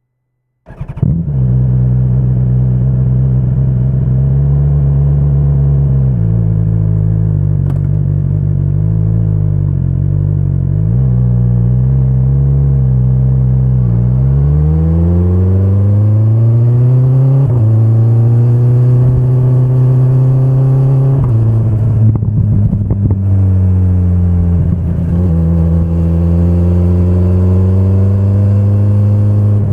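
2025 BMW S1000RR's inline four-cylinder engine comes in suddenly just under a second in and idles. About halfway through its speed rises as the bike gets under way, and the pitch drops back at a couple of gear changes.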